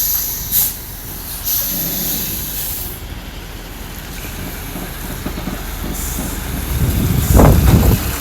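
Tractor-trailer's air brakes hissing in a few short bursts as they release, then the truck's diesel engine rising to a loud low rumble about seven seconds in as the truck pulls forward under power.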